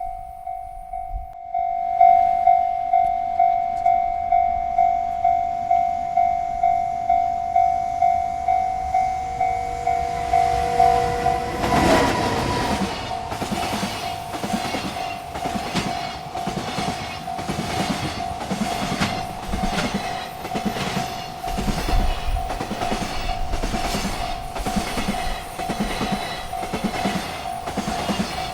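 Railroad crossing bell ringing steadily, about one and a half strikes a second. About twelve seconds in, a freight train reaches the crossing and passes, its wheels clacking over the rail joints in a steady rhythm while the bell keeps ringing.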